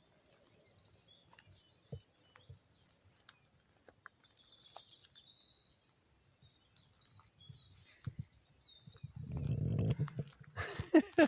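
Small birds chirping and twittering, then near the end a loud animal call of several quick notes, each falling in pitch, just after a low rumble.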